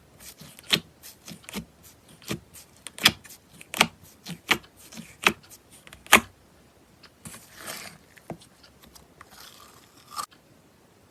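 Slime being squeezed and pressed in ASMR play: a run of sharp crackling pops, a loud one about every three-quarters of a second with fainter ones between, for the first six seconds. After that come two longer rustling, scraping stretches.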